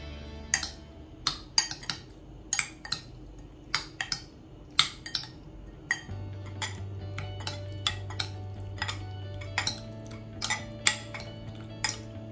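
A metal utensil striking and clinking against cookware in irregular, sharp knocks, about two or three a second, over background music.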